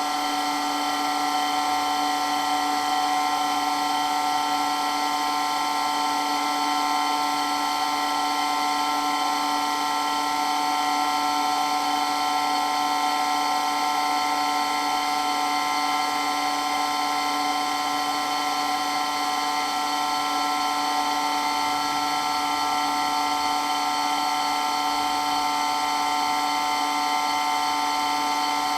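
Water pump running steadily with a constant high-pitched whine and hiss, very loud, with no change in speed or pitch.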